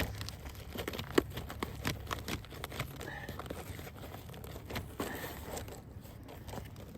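A Vogeler roofing shingle being pried and peeled up, with irregular crackling and tearing as its bond to the layer beneath breaks; the sharpest snap comes about a second in. The shingle is stuck fast, its top mat adhered to the bottom mat and underlayment.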